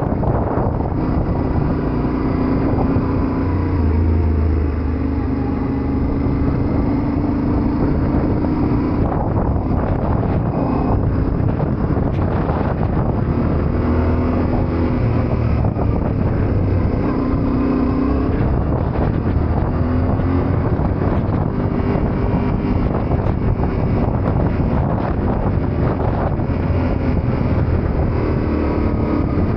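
Yamaha Ténéré 700's parallel-twin engine running while riding, its pitch rising and falling with the throttle and gear changes, over steady wind noise on the microphone.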